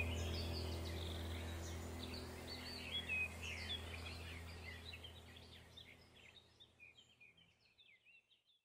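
Small birds chirping and twittering over a steady low hum, the whole sound fading out gradually to nothing near the end.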